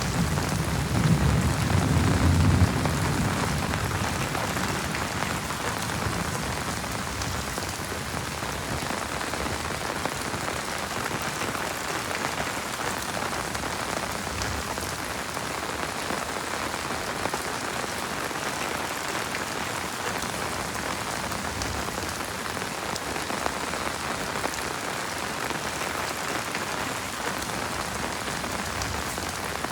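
Heavy rain falling steadily, with a low rumble of thunder fading away over the first few seconds.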